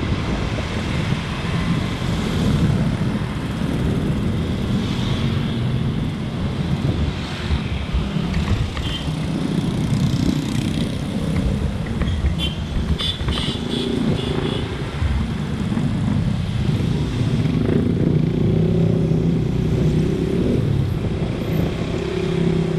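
Motorcycle engine running and surrounding road traffic heard from a moving motorbike, a steady rumble that rises and falls with speed. A brief patch of short high-pitched tones sounds about midway.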